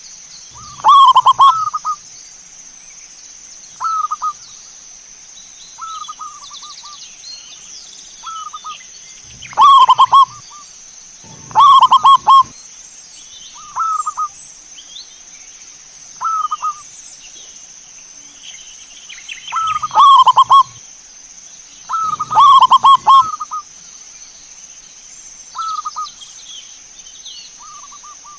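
Zebra doves (perkutut) cooing in short rolling phrases about every one to two seconds, louder calls alternating with fainter ones, over a steady high-pitched hiss.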